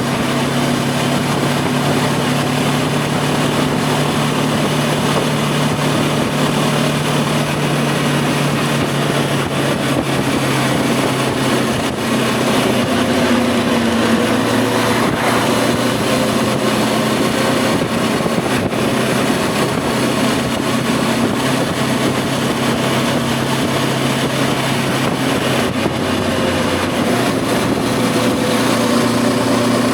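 Voge 525 DSX motorcycle's parallel-twin engine running steadily under way, with rushing wind noise. The engine note shifts slightly in pitch around the middle and again near the end.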